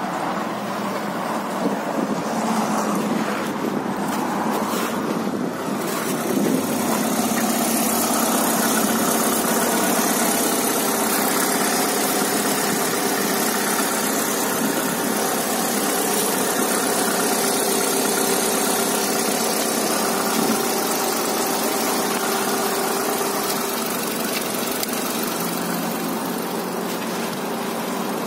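Vortex SUV's engine idling steadily just after a jump start. It is heard first from inside the cabin, then close up at the open bonnet, where it comes through louder and clearer from about six seconds in.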